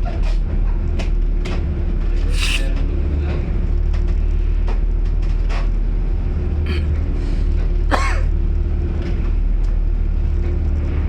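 A vessel's engine running with a steady low drone, with repeated knocks and clatter from the boat working in rough seas.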